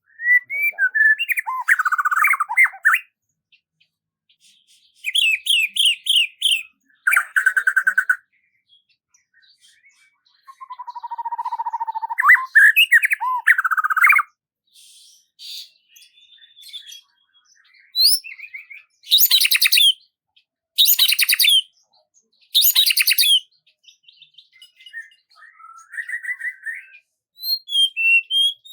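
Songbird singing in short phrases of chirps, trills and whistled glides, separated by brief silent pauses. Three loud, harsh, rasping phrases come in a row about two-thirds of the way through.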